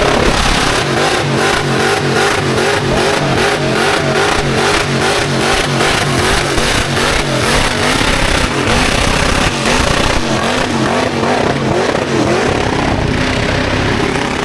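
Car engine held at high revs during a burnout, its pitch wavering quickly up and down. Through the first half a rapid pulsing runs over it, about two or three beats a second.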